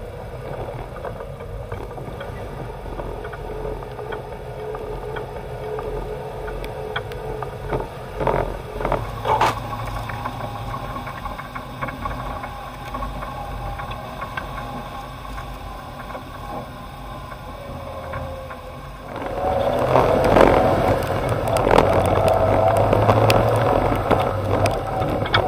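Off-road 4x4's engine running as the vehicle drives along a rough track, heard from on board, with a steady hum, rattles and a few knocks. It grows louder about three quarters of the way through.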